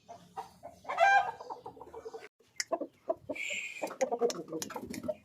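Aseel chickens clucking in short calls, the loudest about a second in, with scattered brief knocks.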